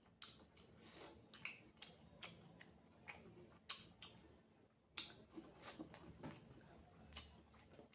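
Faint, close-miked sounds of a person chewing rice and fried egg: irregular wet clicks and smacks of the mouth.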